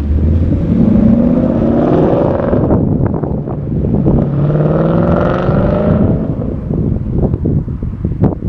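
2016 Mustang GT's 5.0-litre V8 through a Borla S-Type exhaust, accelerating hard: the pitch rises, drops at a gear change about three seconds in, and rises again through the next gear. After about six seconds it settles into an uneven rumble.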